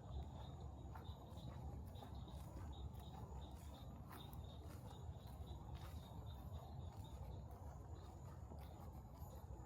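Insects chirping steadily: a thin high drone with a quicker pulsing chirp below it, over a low rumble and faint scattered clicks.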